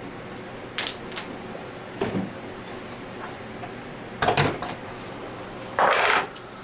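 A handful of short, sharp knocks and clinks of tools and metal parts being handled on a workbench, with a longer, louder scrape near the end.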